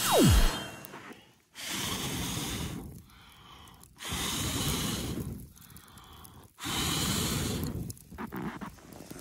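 A quick falling tone at the very start, then three long, hard blows of breath, each over a second long and about a second apart.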